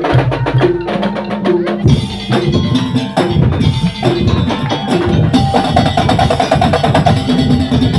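Madurese tongtong (daul) ensemble playing: wooden slit drums and drums beat a fast, even rhythm under a short repeated melody, the sound growing fuller about two seconds in.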